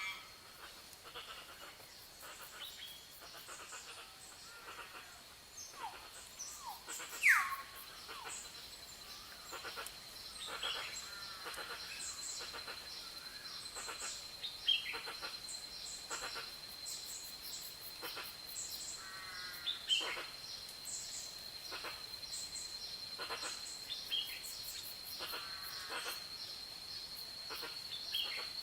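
Forest ambience of many birds calling: scattered chirps, short whistles and trills over a steady high-pitched drone, with one loud falling whistle about seven seconds in.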